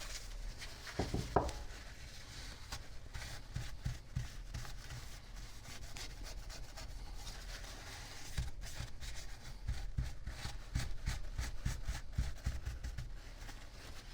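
Rubbing and scraping of a pump part being cleaned by hand, with irregular light clicks and knocks as it is handled, busier in the second half.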